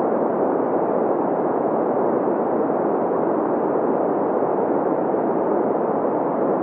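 Synthetic green noise: a steady, even hiss centred in the middle range, strongest around 500 Hz and fading above about 3 kHz, with no change or events.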